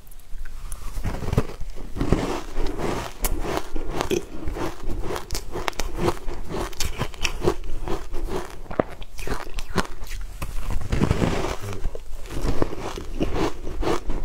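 Close-up eating sounds: biting and chewing a piece of matcha-dusted cake, with many small, irregular crackling clicks.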